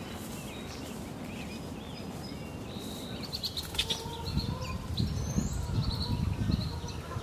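Small birds chirping and singing, with clusters of short high chirps from about three seconds in. A low rumble joins them about four seconds in.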